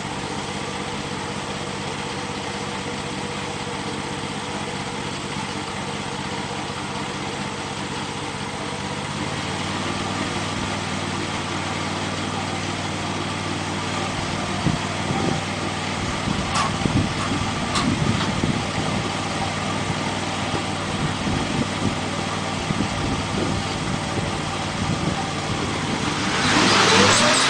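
Mini combine's gas engine running steadily, with scattered knocks and clatter in the second half. Near the end the engine speeds up, joined by a loud rushing noise.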